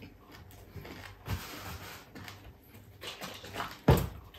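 Close-up chewing of crispy fried chicken-feet chicharon, with soft crunching and mouth sounds. A sharp knock comes just before the end as a juice carton is lifted from the table.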